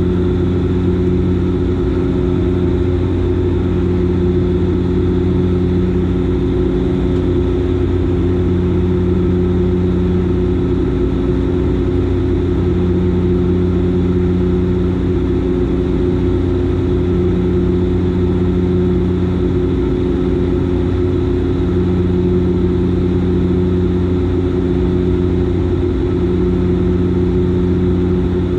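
Dash 8 Q400's Pratt & Whitney PW150A turboprops and six-blade propellers droning steadily in flight, a low, even hum with a slow throb that swells and fades every few seconds.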